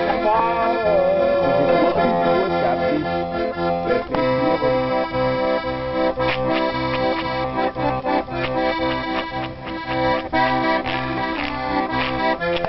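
Accordion playing a folk tune: held chords over a bass that settles into a steady oom-pah beat about four seconds in.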